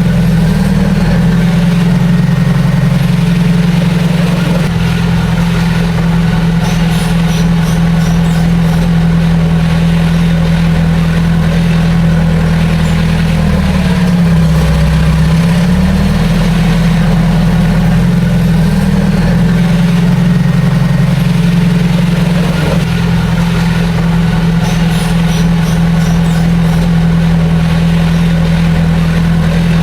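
Heavy diesel engine of earthmoving machinery running steadily and loud. About halfway through, its pitch dips for a second or two and then comes back up.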